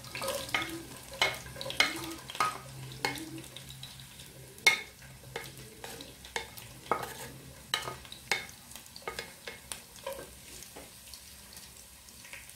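Chopped onion sizzling in hot sunflower oil with whole spices in a nonstick pot, stirred with a wooden spatula: a faint frying hiss under many sharp taps and scrapes of the spatula on the pan and plate, with one louder knock about halfway through.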